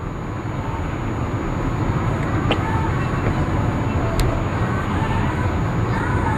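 Steady road noise of a moving car with a low engine rumble, and two light clicks about two and a half and four seconds in.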